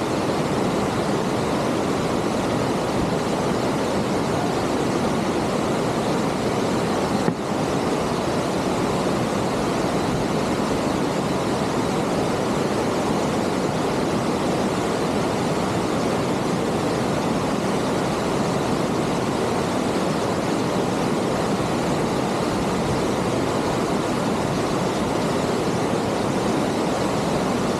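Multi-tiered jungle waterfall: a steady, even rush of falling water. One brief click about seven seconds in.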